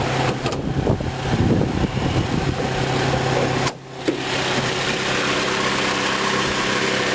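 A 2003 Saturn VUE's 2.2-litre four-cylinder engine idling steadily with the hood open. Irregular noise runs over the first few seconds, there is a brief drop in level about four seconds in, and then the idle continues evenly.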